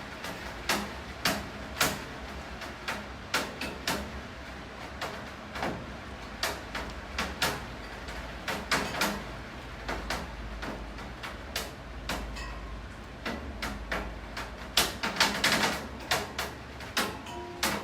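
Rain, with heavy drops and drips striking a hard surface in irregular taps over a steady hiss of rainfall, denser in a flurry near the end, with a low rumble underneath that swells in the middle.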